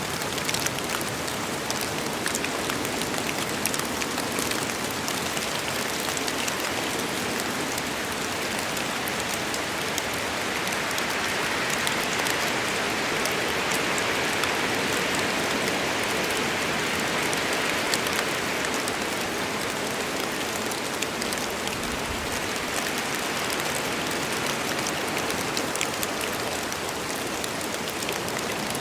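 Rain falling steadily in a forest, a dense hiss with many individual drops ticking through it; it grows a little louder around the middle.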